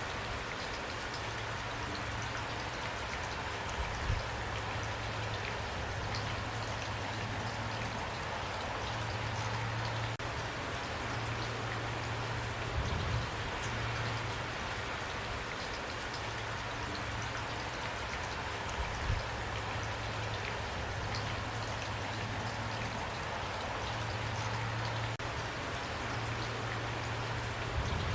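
Steady rain falling, an even hiss of drops on a surface. A low hum comes and goes beneath it, and a few brief low thumps stand out about four, thirteen and nineteen seconds in and near the end.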